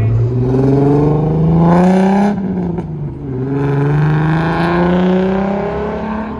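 Car engine accelerating hard: its pitch climbs for about two seconds, breaks off briefly as it shifts up a gear, then climbs again.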